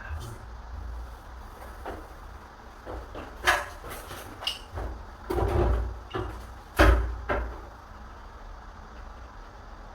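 A door being worked on: a few scattered knocks and clunks, with a longer scraping clunk in the middle and the loudest knock about two thirds of the way through.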